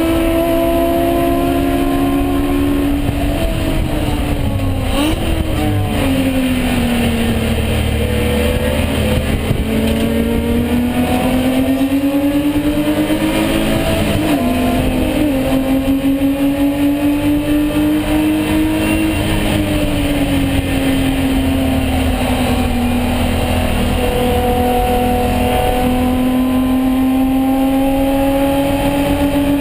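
BMW E36 M3 race car's engine at racing speed, its pitch dropping under braking around 3 to 7 seconds in, climbing again, dipping and jumping briefly near the middle on a downshift, then falling and rising once more near the end as it accelerates out of corners.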